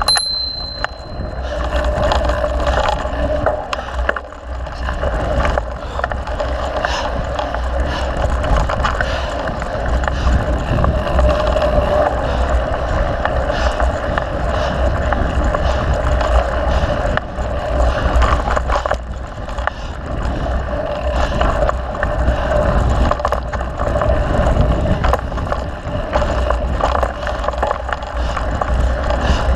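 Mountain bike riding along a dirt trail: tyres rolling over the ground and the bike rattling over bumps with frequent knocks and clicks, with wind buffeting the microphone. A short high-pitched ring sounds right at the start.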